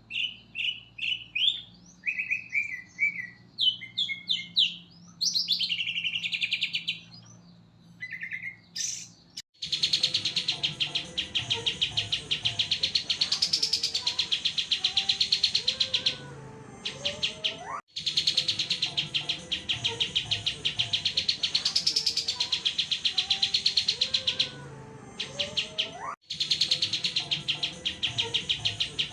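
Songbird singing: a string of short, separate chirps and whistles, then from about ten seconds in a fast, continuous trilled song in long phrases broken by brief pauses.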